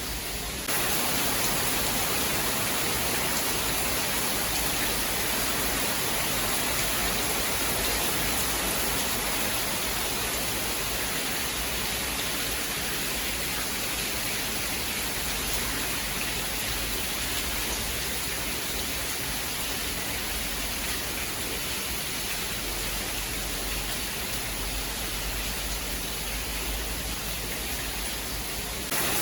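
Steady rain, an even hiss with no thunder; it grows a little louder about a second in.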